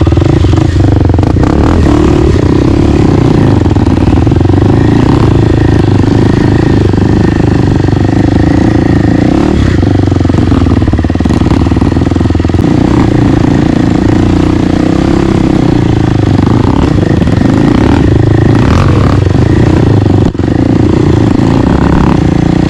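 Dirt bike's single-cylinder four-stroke engine running loud and close, holding a fairly even pitch with small rises and falls, with a brief drop about twenty seconds in.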